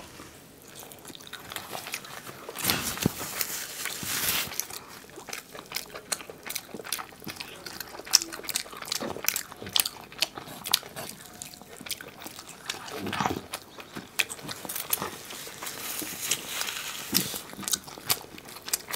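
Close-miked eating sounds of two people eating saucy chicken curry and rice by hand: wet chewing, lip-smacking and biting, with many short smacks and clicks scattered throughout.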